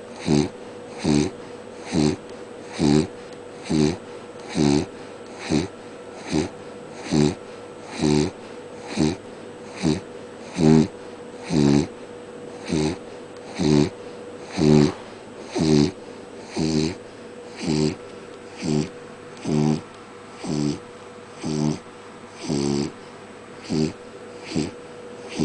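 A dog snoring in its sleep: short pitched snores, evenly paced at about one a second.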